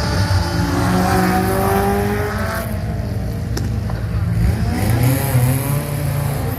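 Honda F20C four-cylinder engine of a Datsun 1200 rally car running hard under acceleration, lifting off about two and a half seconds in so the pitch falls, then pulling up through the revs again.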